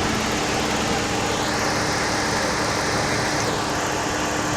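2008 Dodge Charger running steadily in the shop, a continuous even whir with a faint hiss that comes and goes in the middle.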